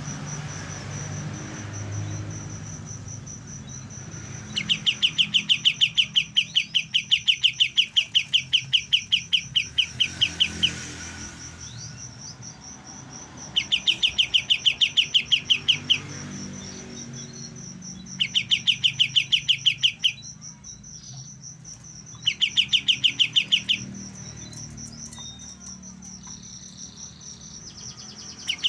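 Young kapas tembak bulbul, still learning its song, giving four bursts of a fast, rapid-fire trill of about ten notes a second, each lasting a few seconds, with quiet gaps between them. A steady high-pitched buzz, like an insect, runs underneath throughout.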